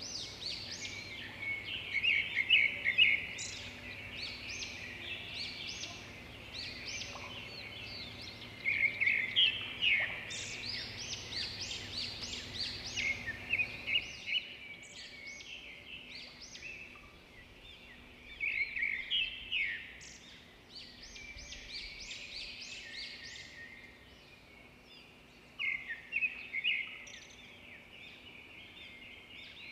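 Small birds chirping and singing, many short calls overlapping, in louder flurries every few seconds.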